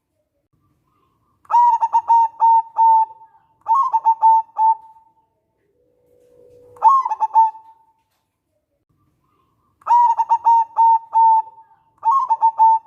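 Zebra dove (local perkutut) cooing: five phrases of quick staccato coo notes, each phrase a second or so long, separated by short silent gaps.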